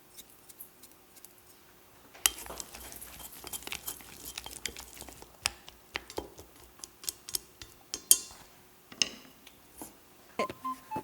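Kitchen utensils clinking and scraping against a pan and dishes. There are sparse clicks at first, then a busier run of scraping and clinking over a light hiss from about two seconds in, then single clinks again.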